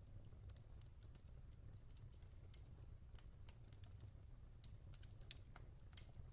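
Log fire crackling quietly: irregular small pops and snaps, with one sharper snap near the end, over a faint steady low rumble.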